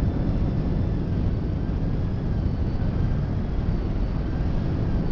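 Steady low rumble of a slow-moving freight train, heard from the rear platform of its caboose, with a few faint high wavering squeals.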